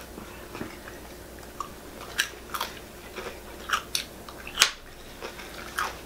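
A person chewing a mouthful of food, with several short, sharp mouth clicks and smacks, the loudest about three quarters of the way through.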